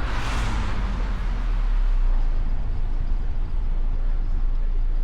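Mustang convertible driving, a steady low rumble of road, engine and wind noise, with a brief rushing whoosh in the first second.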